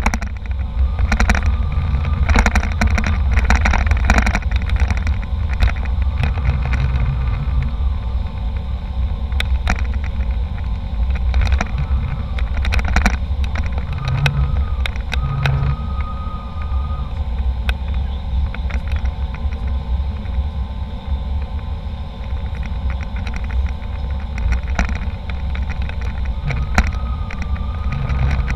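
Airliner cabin noise: a steady, loud low rumble of engines and airflow, with scattered small clicks and a faint thin whine that comes and goes.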